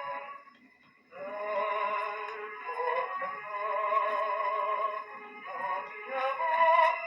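A restored 1900 His Master's Voice gramophone playing a record: thin, narrow-range music carrying a wavering vibrato melody. The music drops out almost completely for about half a second near the start, then picks up again.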